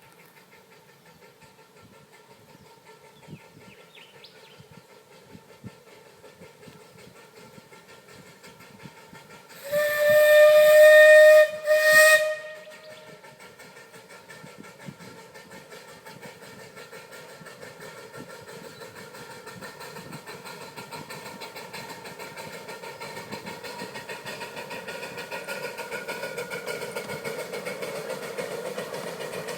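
A 12-inch gauge steam locomotive's whistle sounds twice about ten seconds in, one long blast followed by a short one. Around it is a steady hiss of steam that slowly grows louder towards the end.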